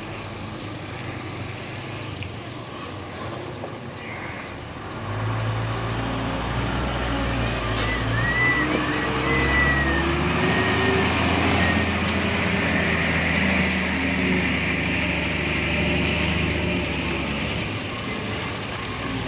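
Heavy loaded palm-fruit truck's diesel engine running at low revs. It grows louder about five seconds in and eases off near the end.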